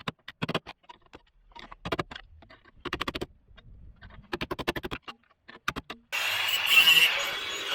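Several short bursts of rapid clicking, each lasting under half a second. About six seconds in, a steady noise with a high whine starts.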